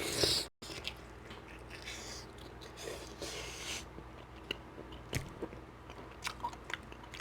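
A person biting into and chewing barbecued beef rib close to the microphone: wet mouth clicks and short smacking, sucking noises.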